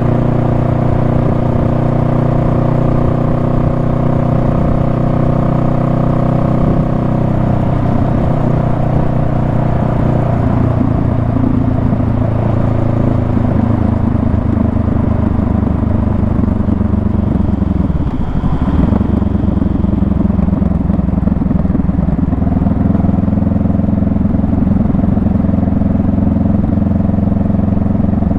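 Honda Rebel 500's parallel-twin engine running steadily at cruising speed, heard from on the bike. About two-thirds of the way through, the revs dip briefly and come back up, as at a gear change.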